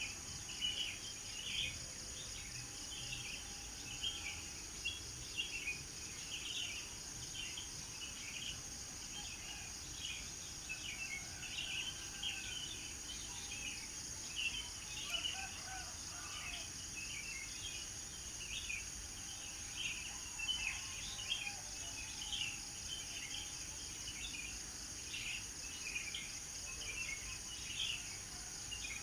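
Birds chirping with many short, quick calls over a steady high-pitched chorus of insects.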